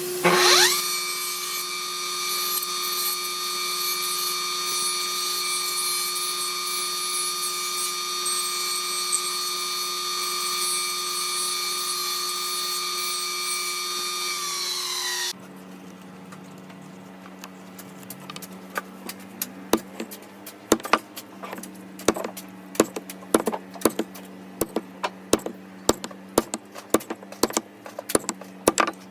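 A power tool's electric motor spins up with a quick rising whine and runs steadily at full speed, then stops abruptly about halfway through. After that a faint steady hum with a run of sharp taps, coming more and more often toward the end.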